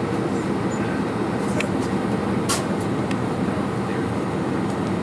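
Steady low rumble of an airliner cabin on the ground before takeoff, with a couple of brief clicks.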